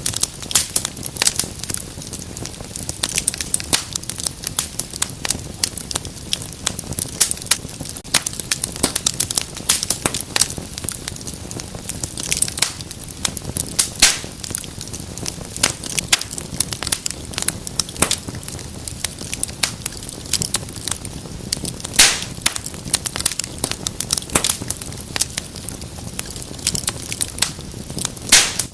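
Wood fire crackling and hissing steadily, with frequent sharp pops and snaps; the loudest pops come about two-thirds of the way through and near the end.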